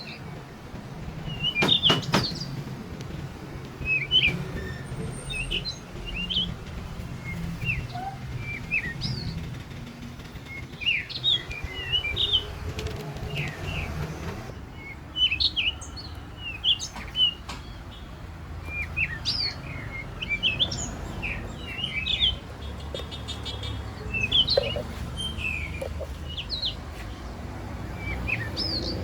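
Small birds chirping and twittering in short, quick calls throughout, over a low steady rumble, with a few sharp knocks about two seconds in.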